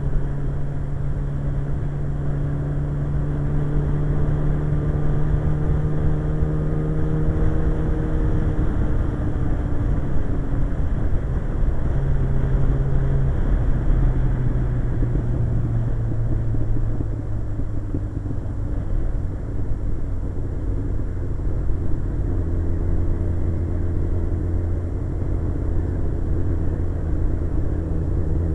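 Suzuki GSX-R 1100's inline-four engine running under way, heard from the rider's position over a steady rush of wind and road noise. The engine note holds steady for the first several seconds, then drops, rises briefly about halfway, and settles lower toward the end.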